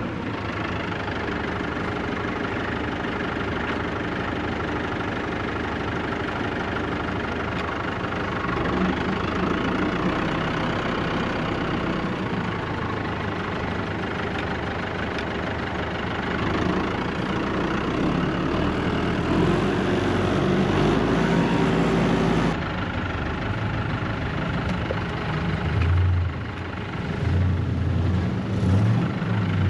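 A vehicle engine running steadily, louder for a few seconds in the middle. About two-thirds of the way through the sound changes abruptly, and deep, pulsing engine notes come in near the end.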